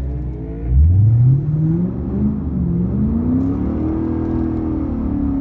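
A Lexus 5.0-litre V8 launching in a drag race. It goes from a low rumble to full-throttle acceleration, with one upshift where the pitch drops back before climbing again, then levels off and falls near the end.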